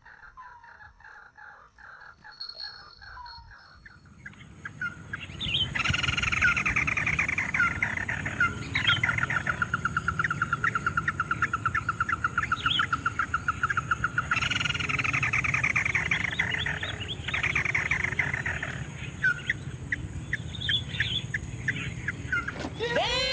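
Ruddy-breasted crake calls: long, fast rattling trills that start about five seconds in and come again about halfway through, over a steady thin high whine.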